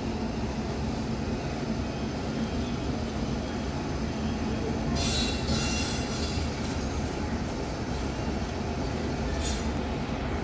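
Passenger express train pulling out of a station: a steady rumble of the coaches rolling on the track, with a brief high squeal about halfway through.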